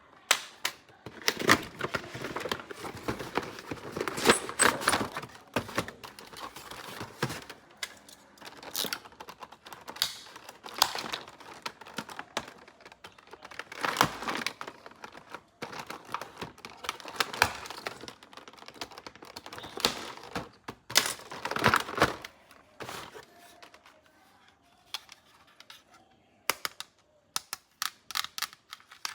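Plastic toys and their packaging being handled during unboxing: irregular crinkling and rustling with sharp clicks and taps, then a quick run of small clicks near the end.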